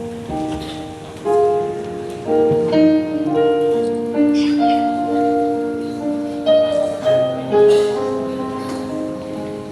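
Piano playing a slow melody over held chords, each note struck and then fading.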